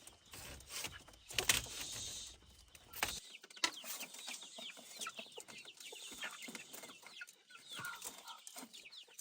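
A flock of chicks cheeping, many rapid short falling peeps over each other. In the first three seconds a few sharp knocks and rustling handling noise sound over them.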